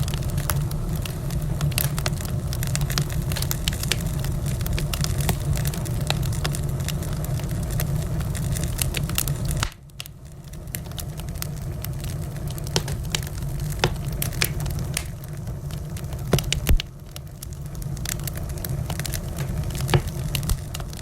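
Wood fire in a fireplace crackling, with many sharp irregular pops over a steady low rumble of the flames. About ten seconds in, the rumble drops away suddenly and then slowly builds back. A loud pop comes near 17 seconds.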